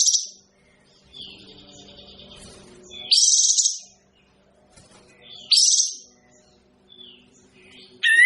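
A pied triller singing: loud, rapid, high trilled phrases about every two and a half seconds, with softer chirps between them.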